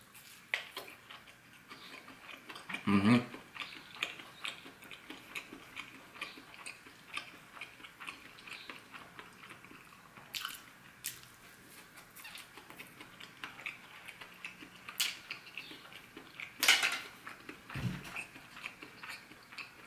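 A person chewing a mouthful of battered, deep-fried corn dog: wet mouth clicks and smacks throughout, with a few louder moments, one about three seconds in and another near the end.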